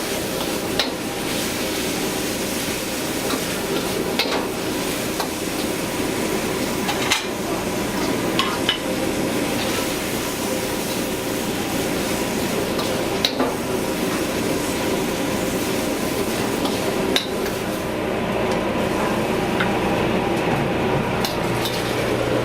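Food sizzling in a metal pan while a metal utensil stirs and scrapes it, with a few sharp metal-on-metal clinks spread through, over a steady kitchen hum.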